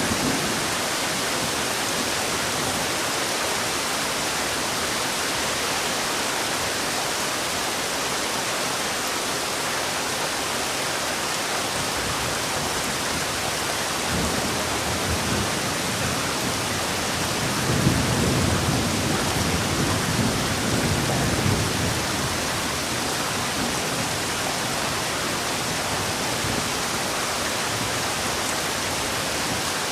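Heavy rain falling in a steady hiss, with a low rumble of thunder swelling about halfway through and fading a few seconds later.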